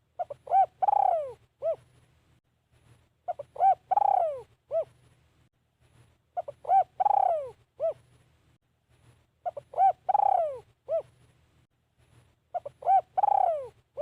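Spotted dove cooing: the same phrase of a few short coos and one longer, falling coo, repeated about every three seconds, five times. It is the calling of a decoy bird used to lure wild doves.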